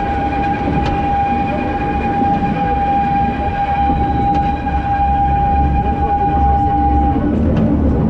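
Steam train carriages rolling along the track with a steady low rumble, under one long, steady high-pitched tone that stops about seven seconds in.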